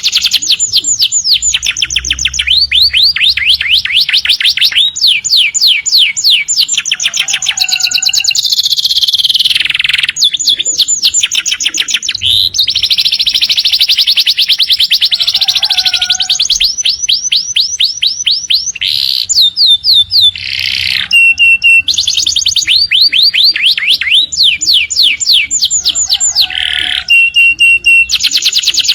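Domestic canary singing a long, almost unbroken song of rapid trills: fast repeated notes that sweep down in pitch, with a few short, steady, clear whistles in between.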